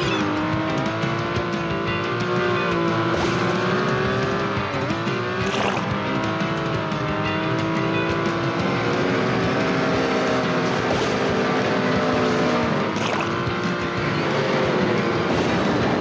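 Race car engine running at high revs in a steady drone, its pitch wavering and briefly dipping then rising again twice, about 5 s and 13 s in.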